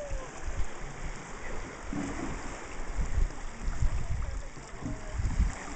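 Sea water lapping and sloshing around a canoe, with gusts of wind buffeting the microphone in irregular low thumps.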